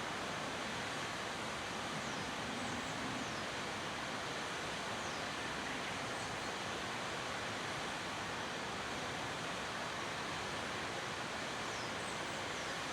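Waterfall rushing: a steady, unbroken roar of falling water, with a few faint, short high chirps over it.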